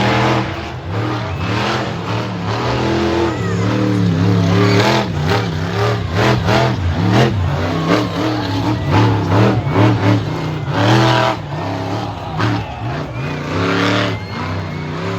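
Monster truck engine revving hard, its pitch climbing and dropping again and again as the throttle is blipped and held.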